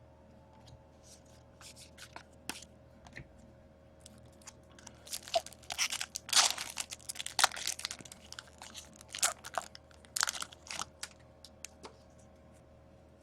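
A foil trading-card pack wrapper being torn open and crinkled, in irregular crackles that are loudest in the middle.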